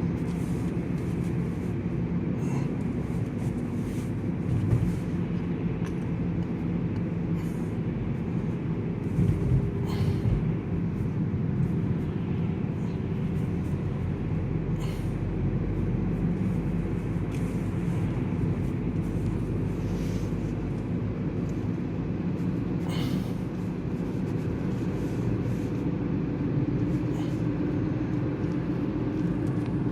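Steady low road and engine rumble heard inside the cabin of a moving car, with a few faint clicks now and then.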